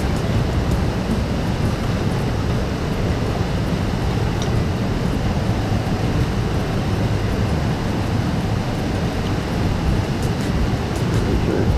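Steady, loud rushing noise with a deep rumble, unbroken and unchanging.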